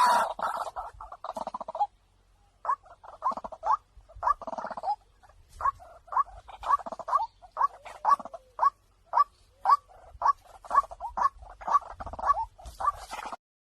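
Mixed recording of white-breasted waterhen calls, the kind played as a trapping lure. A dense burst of calling in the first two seconds is followed by a long run of short, clipped notes, two or three a second, which cuts off abruptly near the end.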